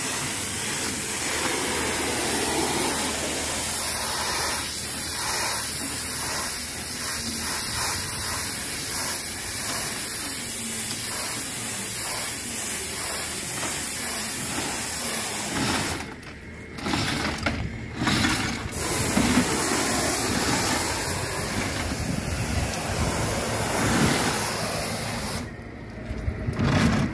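High-pressure water jet spraying with a steady hiss, cutting out briefly twice in the second half.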